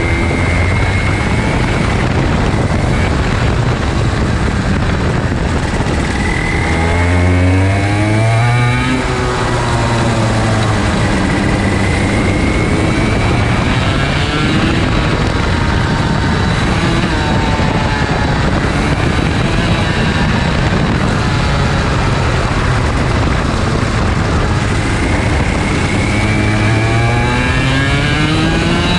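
IAME Leopard 125cc two-stroke kart engine at racing speed, its pitch repeatedly climbing under acceleration and dropping off into corners.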